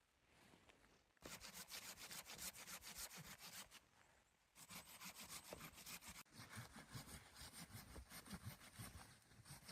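Hand saw cutting through wood in quick back-and-forth strokes, starting about a second in, pausing briefly near the middle, then carrying on.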